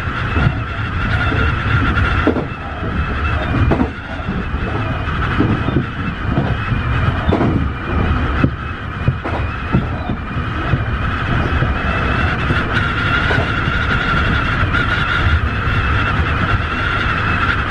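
Tobu 50090-series electric train running at steady speed, heard from inside at the front. A constant rumble of wheels on rail, a steady high whine from the running gear, and irregular knocks from the track.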